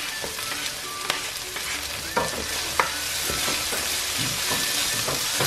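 Onions and spices frying in oil in a wok, with freshly chopped red chillies going in and a spatula stirring through them: a steady sizzle with scattered scrapes of the spatula.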